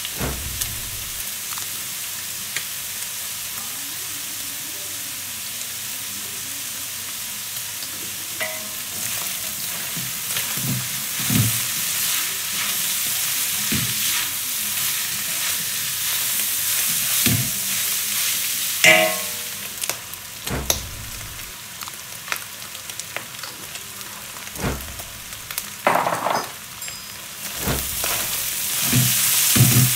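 Seasoned meat sizzling in a hot frying pan while it is stirred. Scattered scrapes and knocks of the utensil against the pan, with a couple of short ringing clinks. The sizzle is louder in the first half and eases off after about twenty seconds.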